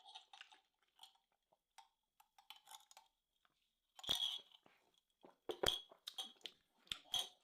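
Close-miked chewing of a bite of tomahawk steak: soft wet mouth clicks, with louder bursts of chewing about four seconds in and again near the end.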